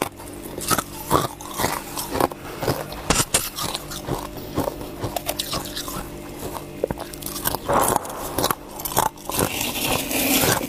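Ice being bitten and crunched between the teeth: a fast, irregular run of sharp crunches with brief pauses, over a steady low hum.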